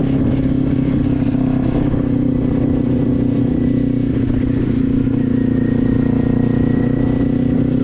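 Motorcycle engine running at a steady speed through a LeoVince aftermarket exhaust, its note holding an even pitch throughout with no gear changes.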